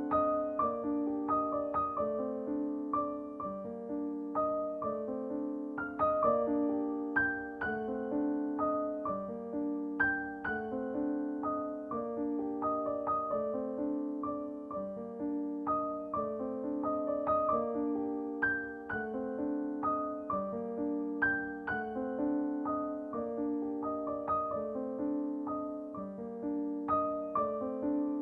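Background piano music: a gentle melody of repeated struck notes at an even pace.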